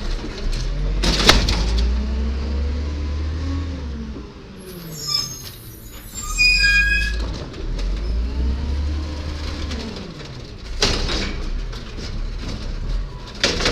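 1999 Volvo Amrep Octo automated side-loader garbage truck: its diesel engine running with the pitch rising and falling repeatedly, with short hissing bursts about a second in and again about eleven seconds in, and a brief high squeal around the middle.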